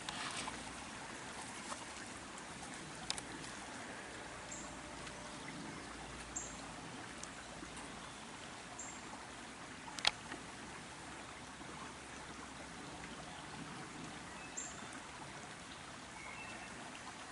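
Quiet outdoor background: a faint steady hiss, with a few brief high-pitched chirps and a couple of soft clicks, the sharpest about ten seconds in.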